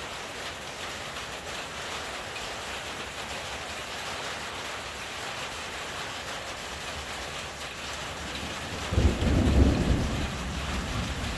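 Steady rain falling throughout, with a sudden clap of thunder about nine seconds in that rumbles low and fades over the next couple of seconds.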